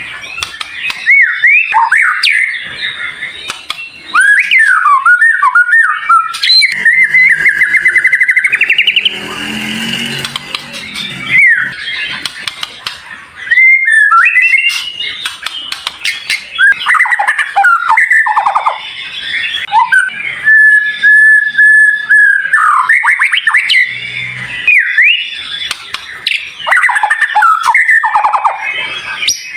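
Songbird singing rapid, varied phrases: high whistles that slide up and down, fast trills and chattering notes, with one long steady whistle about two-thirds of the way through. This is masteran training audio meant to set a white-rumped shama singing.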